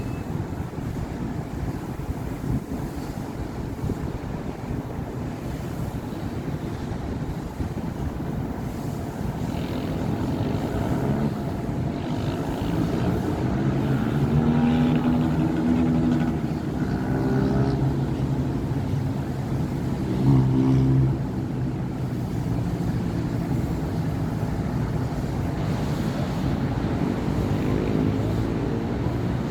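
City avenue traffic: a continuous wash of passing cars and other vehicles. In the middle, a vehicle engine grows louder and passes, with a short loudest peak about two-thirds of the way through.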